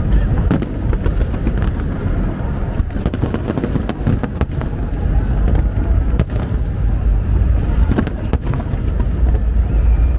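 Fireworks display going off continuously in a dense barrage of bangs and crackles over a constant deep rumble.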